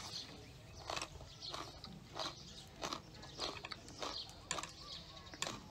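A person chewing a mouthful of food up close, with a short chewing sound about twice a second.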